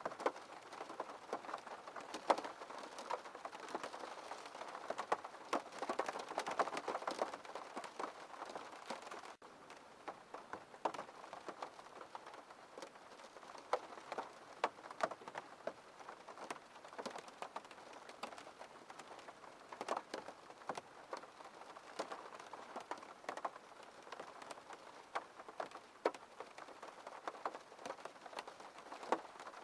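Rain falling on a window pane: a steady patter with many individual drops tapping sharply. It drops out for an instant about nine seconds in and carries on slightly quieter.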